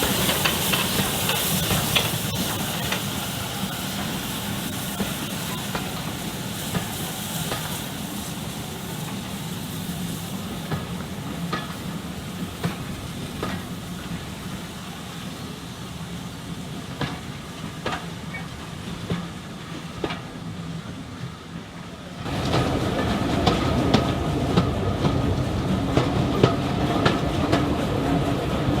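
Train running on the rails, with wheels clicking over rail joints and a steady rumble. About three-quarters of the way through the sound suddenly gets louder.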